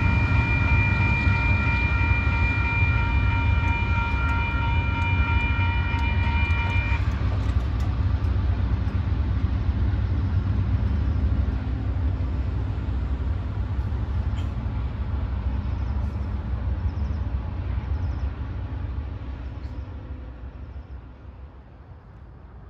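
Union Pacific double-stack freight train rolling past with a heavy, steady low rumble that fades away over the last several seconds. A high, steady ringing made of several tones sounds over it and stops abruptly about seven seconds in.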